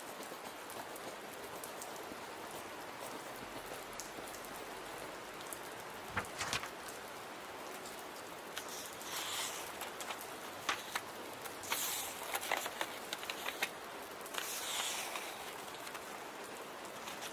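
Steady rain pattering as a continuous hiss, with scattered laptop keyboard clicks, a few around six seconds in and a denser run of typing in the second half, plus a few brief high rustling swishes.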